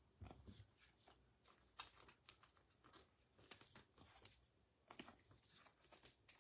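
Faint rustles and soft clicks of trading cards being handled and slid through by hand, at irregular intervals.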